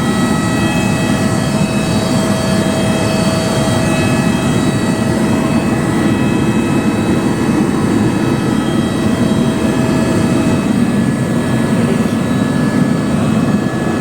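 Helicopter running steadily: a loud, even drone with several steady high whining tones over it.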